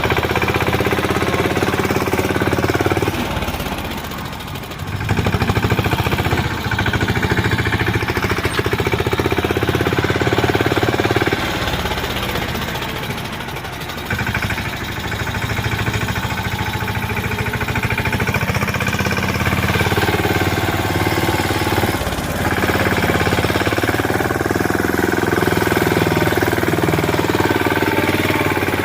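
Tractor's diesel engine running with a rapid knocking beat, easing off briefly twice before picking up again.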